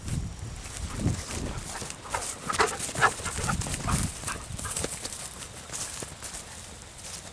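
Wind buffeting the microphone in gusts, with footsteps and a run of quick clicks and knocks a couple of seconds in.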